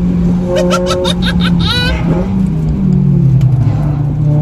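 Modified Honda Civic Type R four-cylinder engine pulling hard at high revs on track, heard in-car. Its note dips and climbs again about halfway through.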